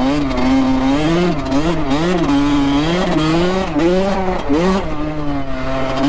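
Honda CR85 two-stroke single-cylinder dirt bike engine being ridden, its pitch rising and falling about once a second as the throttle is worked on and off.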